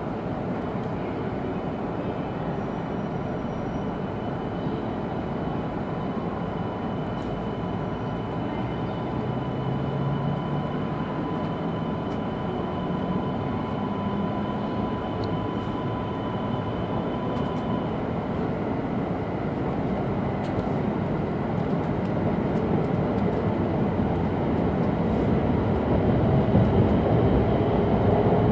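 E2-series Shinkansen running noise heard inside the passenger car: a steady rumble and rush, with a faint steady high whine through the first half, growing louder over the last few seconds.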